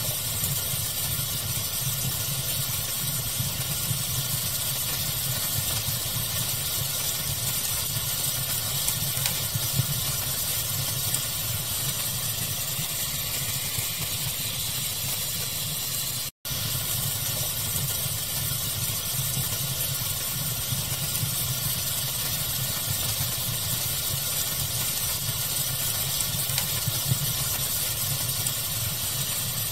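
A fire crackling with small scattered pops over a steady, even pink-noise hiss and a low rumble. The sound cuts out for an instant about sixteen seconds in.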